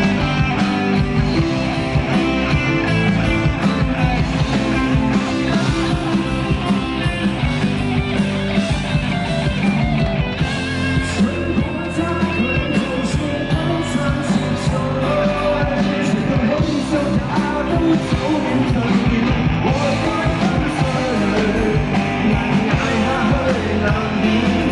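Live band playing a rock song with a steady beat, loud and continuous.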